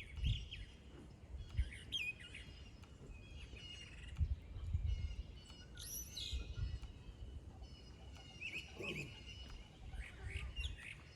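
Wild songbirds chirping and singing, short quick notes and trills, with an irregular low rumble underneath.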